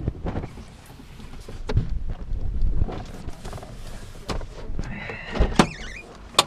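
Several knocks and thumps over a low rumble, the sharpest near the end.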